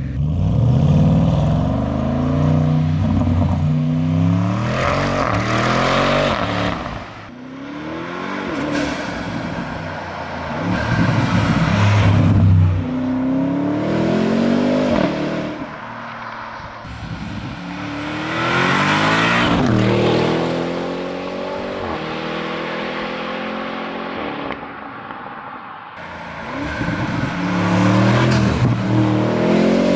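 Tuned Audi RS7 C8's twin-turbo V8 with a 780 PS tune accelerating hard in several runs. The pitch climbs and drops back again and again as it shifts, and the sound swells loud and fades as the car comes and goes.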